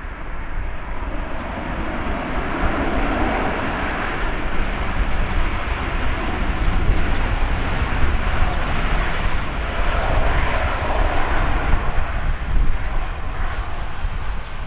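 Jet noise from an Airbus A350-900's Rolls-Royce Trent XWB turbofans as the airliner comes in to land, a steady rushing sound that grows louder about two seconds in and stays strong through the middle.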